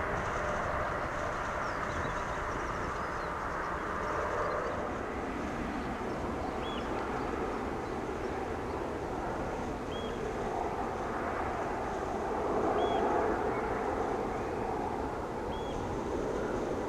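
Jet airliner engines heard at a distance as a steady rush of noise, swelling a little about two thirds of the way through. A faint short high chirp repeats about every three seconds.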